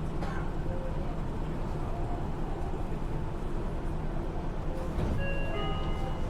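Inside a Yui Rail monorail car running: a steady low rumble from the car. About five seconds in, a whine made of several steady tones at different pitches joins it.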